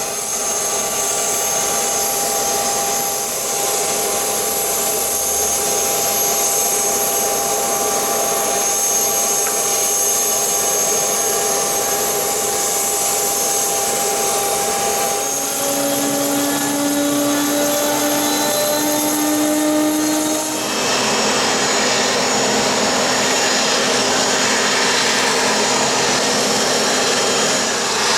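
Bombardier Challenger 605's twin General Electric CF34 turbofan engines running on arrival, a steady jet noise with high whining tones. About halfway a lower whine sets in and rises slightly, and a few seconds later the sound changes abruptly.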